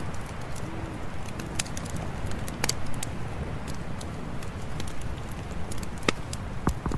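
Campfire burning: a steady low rumble with irregular sharp crackles and pops, a few louder ones near the middle and toward the end.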